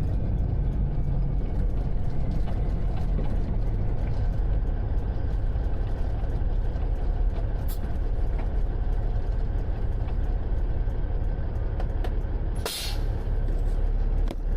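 Semi truck's diesel engine running with a steady low drone. About thirteen seconds in there is a short burst of hissing air from the truck's air system.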